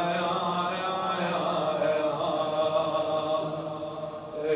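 A radood's voice chanting a Muharram lament, drawing one line out into a long, melismatic held phrase with slowly bending notes.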